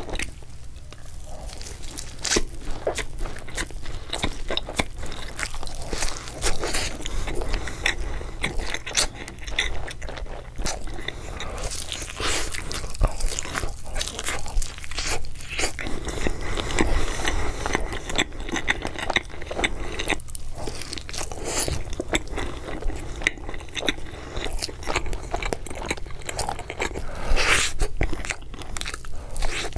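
Close-miked eating: biting into and chewing a cheese-topped bread, a dense run of crunching and chewing clicks.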